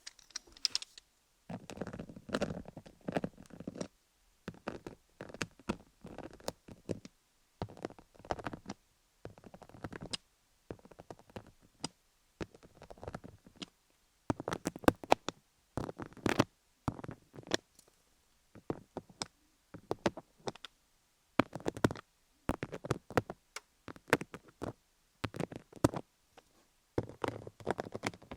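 MTS micro-needle roller rolled over a gem-studded dummy-head microphone: strokes of dense clicking and scratching, each lasting about a second, with short pauses between.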